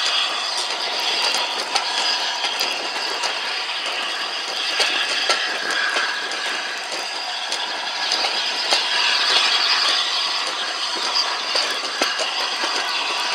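Steam-hauled passenger train running, heard from an open carriage window: a steady noise of coach wheels on the rails and rattling carriages, with scattered sharp clicks from the wheels over the track.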